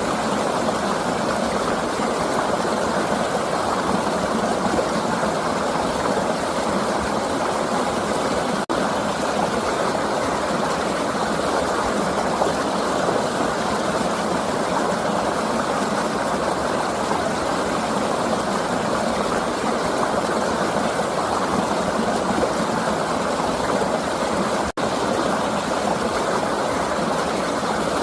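A flowing river: a steady rush of water. The sound cuts out for an instant twice.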